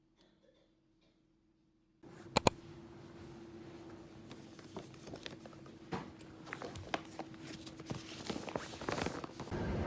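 Near silence, then from about two seconds in a faint low hum with a sharp double click and scattered clicks and knocks, which grow busier toward the end.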